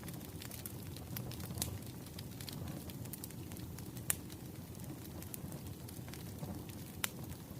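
Wood fire burning with a steady low rumble and scattered sharp crackles and pops, two of them louder, about four and seven seconds in.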